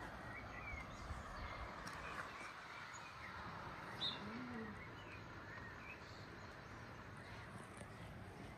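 Small birds chirping faintly in short, scattered calls over a steady outdoor background hiss, with a single sharp click about four seconds in.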